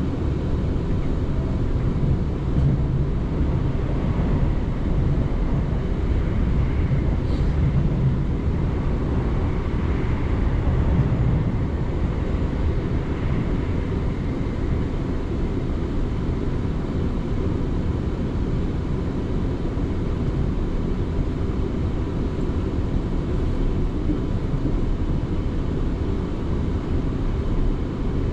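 South Western Railway electric passenger train running at speed between stations: a steady low rumble of wheels on track with a faint steady high whine above it, swelling slightly a few times in the first half.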